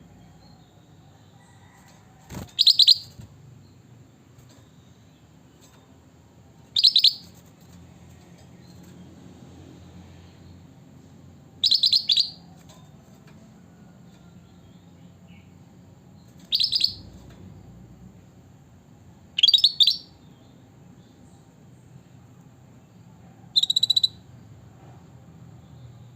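A kutilang batik bulbul giving six short, bright calls spaced about every four to five seconds, two of them closer together in the second half, over a low steady background hum.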